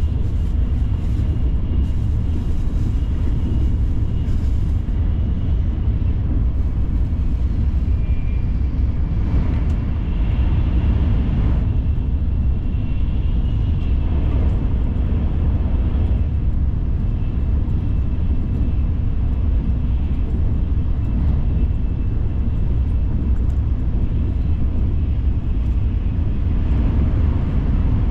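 Shinkansen bullet train running, heard from on board: a steady, deep rumble with a faint thin high whine above it.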